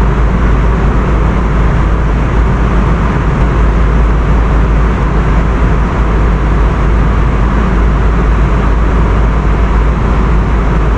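Steady, loud cabin noise of a jet airliner: a deep, even rumble with a rushing roar over it.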